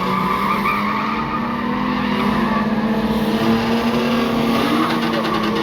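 Motorsport car's engine held at high, steady revs, with tyres squealing.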